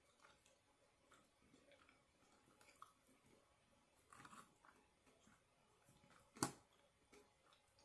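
Faint, close-up mouth sounds of a person chewing and biting food, with small wet clicks and crunches, a denser bout of chewing a little past four seconds in, and one sharp click about six and a half seconds in.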